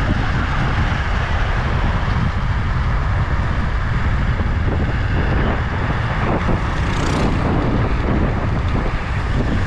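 Minibike running at speed, its engine noise mixed with wind rushing over the microphone. There is a short sharp click about seven seconds in.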